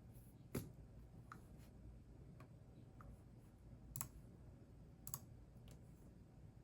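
Scattered, unhurried keystrokes on a computer keyboard: about eight quiet clicks at irregular intervals, three of them sharper than the rest, over a faint steady room background.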